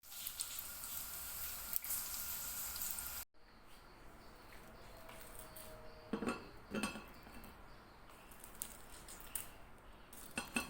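A steady hiss for about the first three seconds, cut off sharply, followed by dishes and cutlery clinking and knocking now and then.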